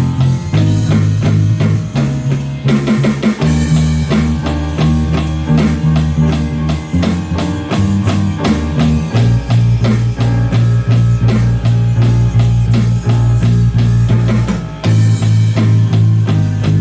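A small student rock band playing drum kit, guitar and bass, with a steady drum beat and the bass moving to a new note every second or two. The players are on instruments they have swapped and newly learned.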